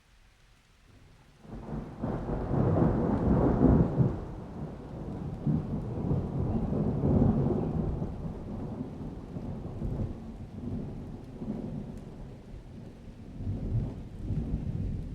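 Rolling thunder: a low rumble breaks in about a second and a half in, is loudest over the next couple of seconds, then rumbles on more quietly with several swells.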